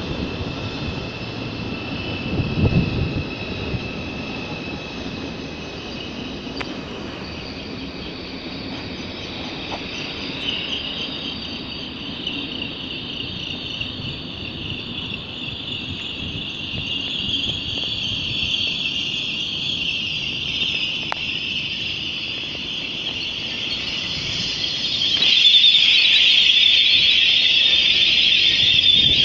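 Train squealing as it rolls slowly on the rails: a high, steady screech over a low rumble, which gets clearly louder near the end.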